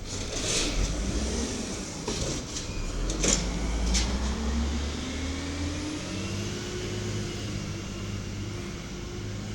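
Diesel garbage truck engine running, its pitch rising for a few seconds as it revs up and then holding steady, with a few sharp knocks in the first four seconds.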